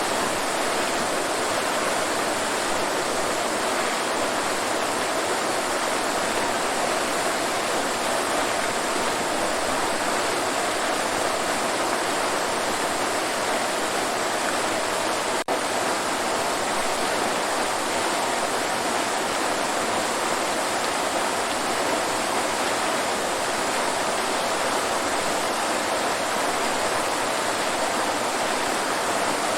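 Waterfall, with water pouring and splashing in a steady, even rush. There is a brief dropout about halfway through.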